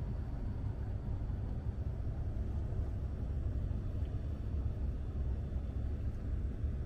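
Steady low rumble of a boat's engine running.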